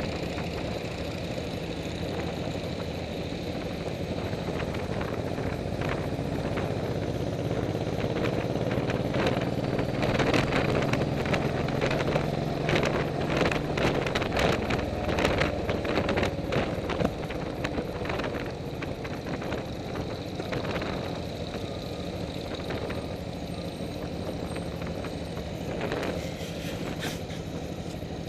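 Motorcycle engine running while riding, with many short knocks or clicks over it. It grows louder for a while in the middle, then eases off.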